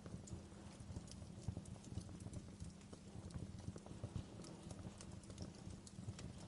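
Wood fire crackling in a fireplace: irregular sharp pops and snaps over a steady low rush of the burning fire.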